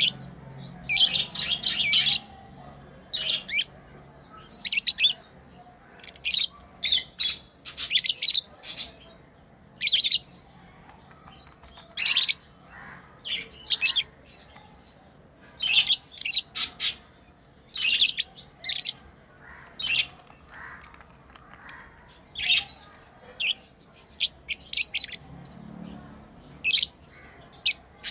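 Pet lovebirds chirping: many short, high-pitched chirps come in quick irregular clusters, with brief pauses between them.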